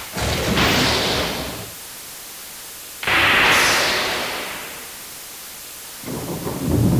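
Thunder: a sudden clap right at the start that fades over about a second and a half, a second, louder clap three seconds in that dies away over about two seconds, then a low rolling rumble that builds near the end.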